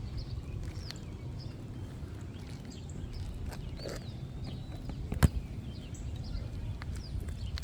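Wind rumble on the microphone with small birds chirping, and one sharp click about five seconds in from the work of pulling the shingle and its nails.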